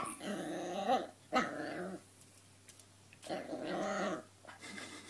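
Puppy growling at its own reflection in a mirror: three short playful growls with pauses between them.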